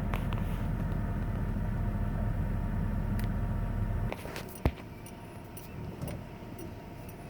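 A 1994 Ford F-150 4x4 pickup running with a steady low rumble that drops away about four seconds in, then a single sharp clunk from the truck about half a second later: the unexplained slap/clunk the truck makes when the brake is released.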